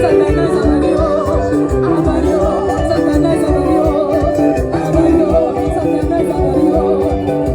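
Band playing upbeat dance music with singing over a steady bass beat.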